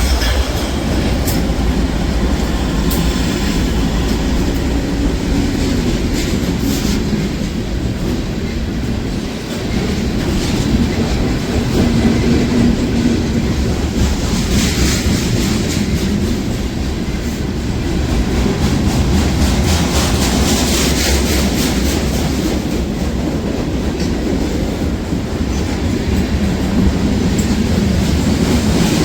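A train rolling past, with loud, steady wheel-on-rail noise.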